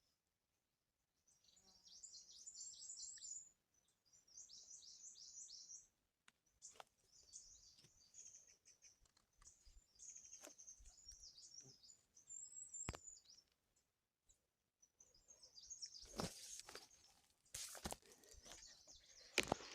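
A small bird chirping in rapid high trills, in phrases of one to two seconds with short gaps, with a few sharp clicks between. From about three quarters of the way through, louder rustling and knocking noises come in.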